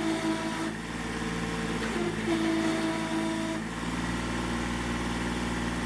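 Kubota B6100 compact tractor's small three-cylinder diesel running steadily. A higher whine comes in twice, about a second each time.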